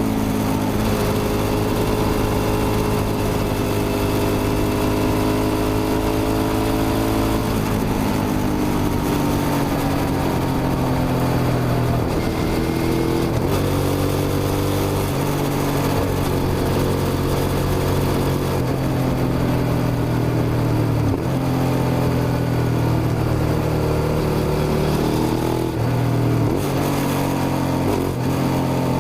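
Suzuki SV650's 90-degree V-twin engine running under load, with the revs sinking slowly over the first several seconds, then rising again near the middle, and dropping briefly a few times later on.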